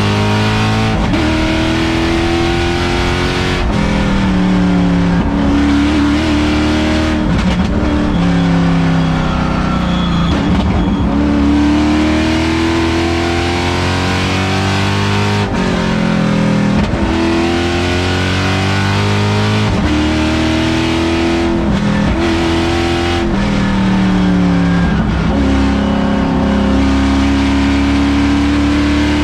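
LS3 V8 engine in a Mazda Miata race car, heard from inside the cabin under hard acceleration on track. The pitch climbs again and again and falls back sharply at each upshift, with a longer drop in revs about ten seconds in.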